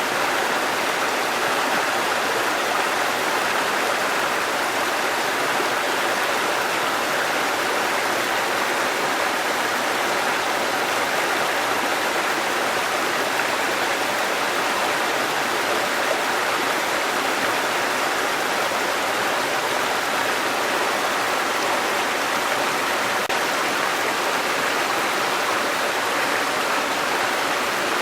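Waterfall water falling and rushing in a steady, unbroken roar.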